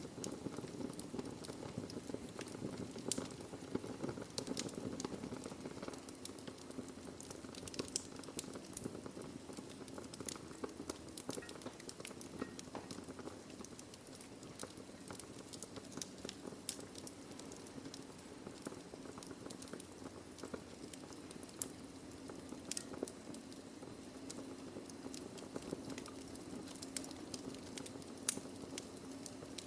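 Wood fire burning in a fireplace: irregular crackling and popping of the logs over a steady low rush of the flames, with one sharper pop near the end.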